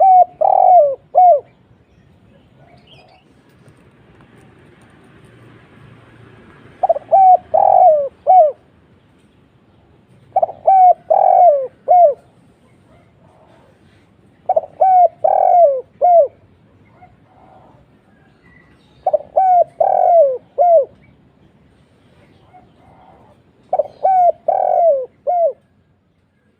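Spotted dove cooing: phrases of four or five low, downslurred coos, repeated about every four seconds, six phrases in all.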